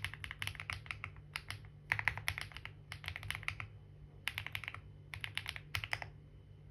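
Typing on a computer keyboard: quick runs of keystrokes in several short bursts with brief pauses between them, stopping about six seconds in.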